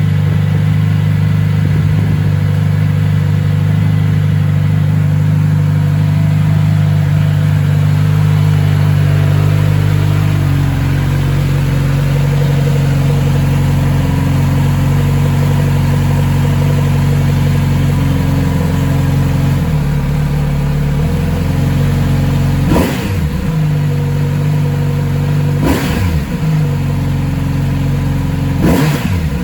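Kawasaki Z900RS's inline-four engine idling after a first start in months, the idle dropping to a lower speed about a third of the way in as it settles. Near the end the throttle is blipped three times, each rev rising and falling quickly.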